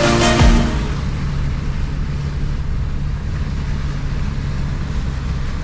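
A 4WD's engine running steadily under load as it drives, with a constant low drone and a broad rushing noise of tyres and wind.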